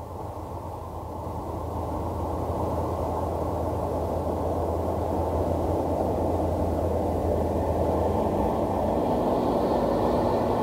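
A Ford Cortina 1600's 1600cc engine, heard from outside as the car approaches, growing steadily louder. About eight seconds in, the engine note changes and a higher whine comes in.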